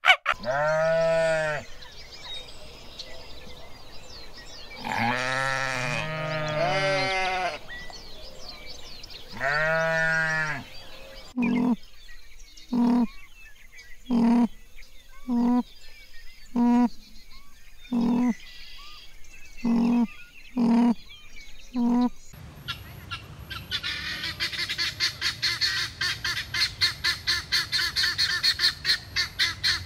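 A sequence of animal calls: three drawn-out pitched calls that rise and fall, then a run of short calls about every second and a quarter. About 22 seconds in this gives way to helmeted guineafowl chattering in a fast, steady rattle.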